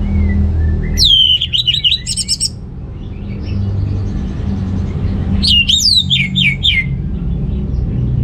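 Orange-headed thrush singing: two loud phrases about four seconds apart, each a high sliding whistle that breaks into a quick run of falling notes, over a low steady hum.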